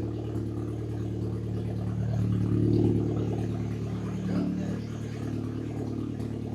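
Audi car engine idling through a freshly built homemade exhaust, swelling louder for about a second a couple of seconds in.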